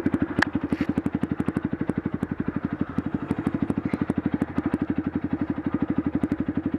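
Motorcycle engine idling with a rapid, even pulse, with faint ticks over it.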